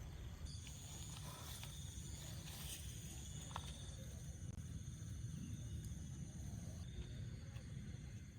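Night insects such as crickets chirping steadily in high, fine trills over a low rumble, with a few faint clicks.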